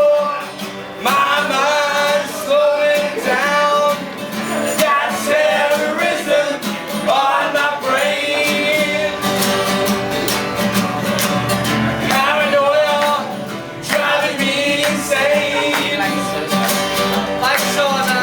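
Live song performance: a man singing over guitar accompaniment.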